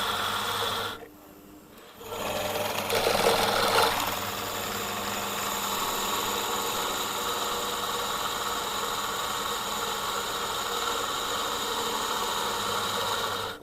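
Pillar drill running with a steady motor whine while drilling steel. It stops about a second in, starts again a second later, and runs until it cuts off near the end.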